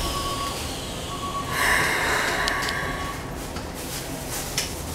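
Interior of a Keikyu New 1000 series train car standing with its doors just shut: a low steady rumble and faint hum, with a short hiss of compressed air about a second and a half in, followed by a couple of light clicks.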